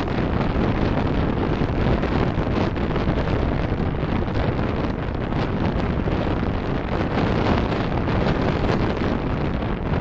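Steady road and wind noise of a car driving, picked up by a dashcam microphone.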